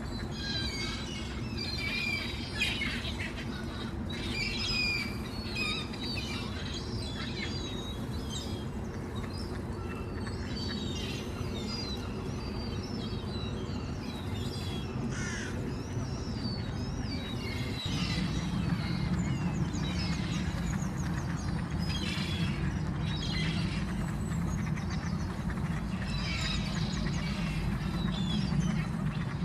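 Many birds at a frozen pond calling, a busy mix of short chirps and calls, over a steady low rumble that gets louder about two-thirds of the way through.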